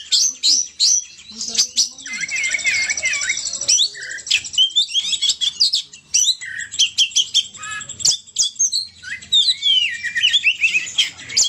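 Oriental magpie-robin (kacer) singing vigorously: a rapid, unbroken run of varied whistles and sharp chirps, with a fast buzzy trill about two seconds in.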